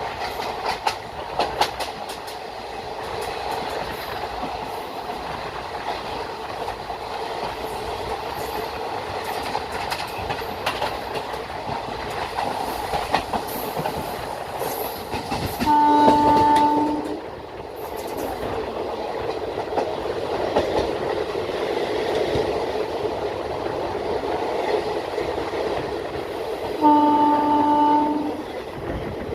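Circar Express passenger train running along the track with a steady rumble and a few sharp clicks of the wheels over rail joints early on. The locomotive's horn sounds twice, about sixteen seconds in and again near the end, each a held blast of about a second and a half.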